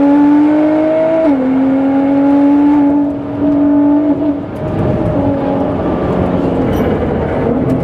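Tuned 700 hp Nissan GT-R R35's twin-turbo V6 under hard acceleration: the pitch climbs, drops at an upshift about a second in, climbs again, then the driver lifts off about four seconds in and the engine falls to a lower, uneven note.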